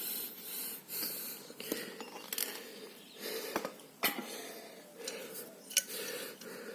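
Small metal clicks and taps of air-hose fittings being handled and a bleed knob screwed back closed, with patches of faint hissing between them.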